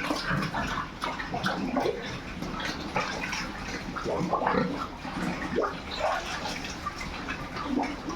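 Pigs grunting and squealing, many short overlapping calls in quick, irregular succession.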